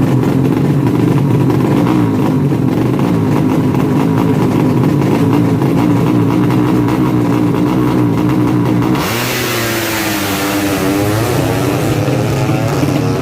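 200cc four-stroke underbone drag-bike engine running steadily at a fast idle. About nine seconds in, the sound changes abruptly: the pitch rises, a hiss comes in and the tone wavers up and down.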